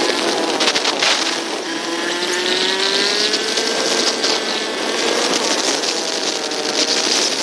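Motorcycle engine running under way, its pitch climbing slowly over several seconds and dipping a little near the end, over a steady rushing hiss.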